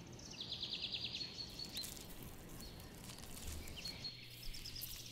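Faint wild nature ambience: a bird gives a rapid trill of about ten quick high notes about half a second in, followed by a few scattered thin chirps and a faint steady high tone.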